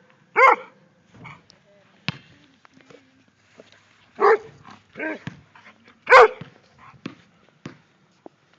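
Small dog barking in short, high yaps: about four loud barks with a few quieter ones between.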